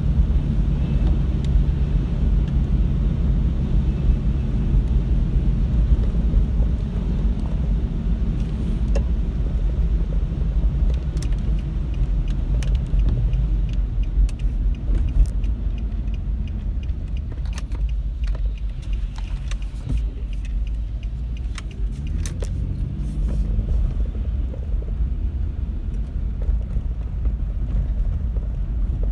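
Car being driven: a steady low engine and road rumble, with scattered light ticks through the middle.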